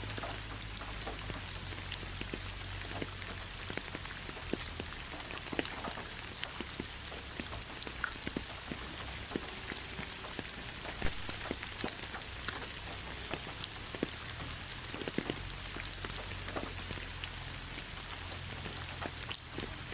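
Rain falling on fallen leaves: a steady patter with many separate drops ticking at irregular times.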